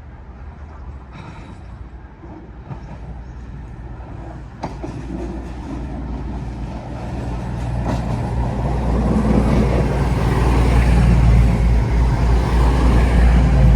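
Train approaching, its low rumble growing steadily louder, with a single sharp click about halfway through.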